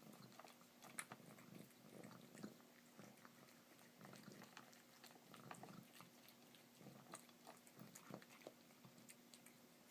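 A cat eating wet food from a plate: faint, irregular chewing and licking clicks.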